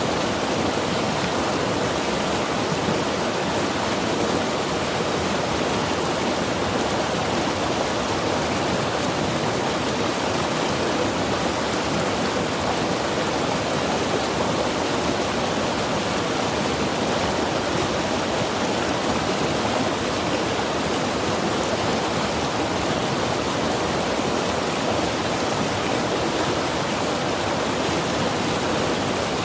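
Mountain river rushing steadily over rocks: a constant, even roar of flowing water.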